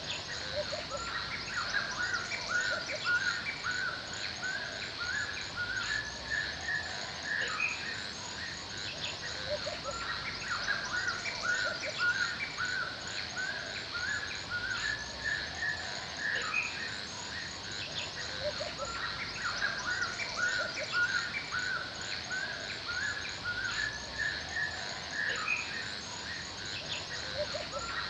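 Forest ambience: many birds chirping and singing in short repeated calls, over a steady high, rapid chirring of insects and a soft background hiss.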